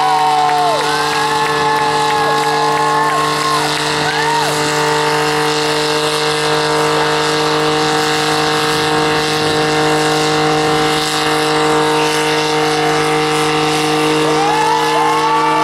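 Twin-engine VW Passat and a second car doing burnouts: engines held at high, steady revs as the rear tyres spin. Another engine's revs rise, hold and drop a few times near the start and again near the end.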